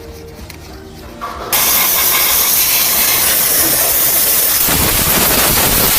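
A pressurised cleaning jet hissing steadily as the removed differential and gearbox parts are washed. It starts abruptly about a second and a half in and stays loud and even.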